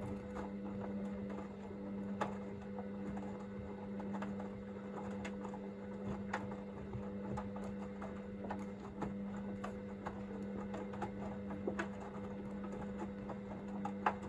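Hoover VisionDynamic washing machine turning its drum during the heat-to-40 °C stage of the wash: a steady motor hum with scattered clicks and light knocks from the tumbling load.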